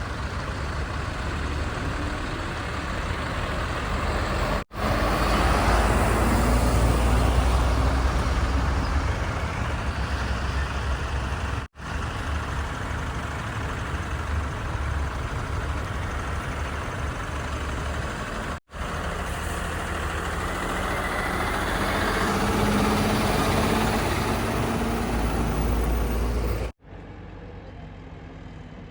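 Heavy diesel engines of a backhoe loader and tipper trucks running under load, in several short clips joined by abrupt cuts. The engine gets louder a few seconds in and revs up again near the end.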